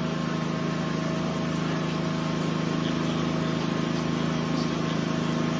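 An engine or motor running at a steady speed, a constant low drone with a faint steady whine above it and no change throughout.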